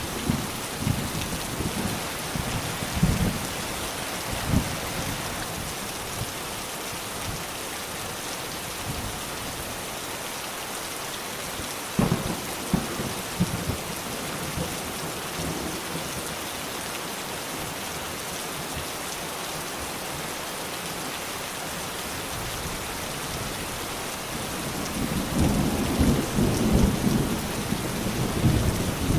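Steady heavy rain hissing, with thunder. Low rumbles come in the first few seconds, a sharp clap about twelve seconds in, and a long rolling rumble near the end.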